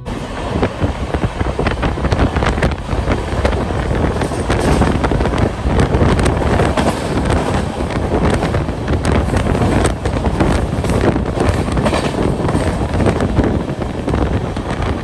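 Moving passenger train running on the track, a steady rumble with rattling and clatter, under wind rushing over the microphone as the train goes along.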